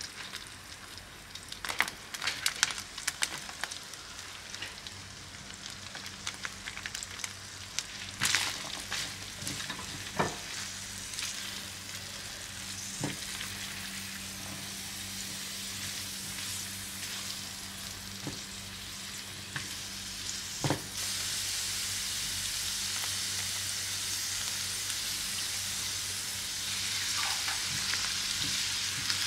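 Chickpeas, onion and chives frying in a nonstick pan: a steady sizzle, with clicks and knocks from stirring with a silicone spatula, mostly in the first half. About two-thirds of the way through, the sizzle jumps louder and stays there as soy sauce hits the hot pan.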